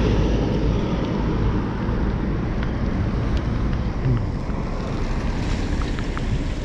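Wind buffeting the microphone during a bicycle ride: a steady low rushing rumble, with a few faint ticks.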